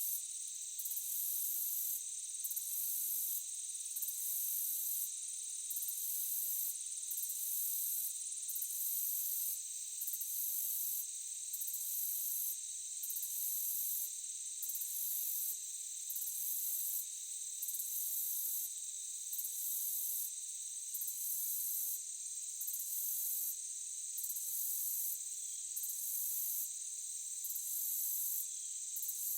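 Forest insect chorus: a steady high-pitched trilling, with a higher layer that pulses on and off about every second and a half.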